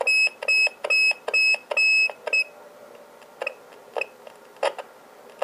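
Electronic beeps as radio gear is switched back on: a run of about six short, same-pitched high beeps, each starting with a click, over the first two and a half seconds, followed by a few scattered clicks.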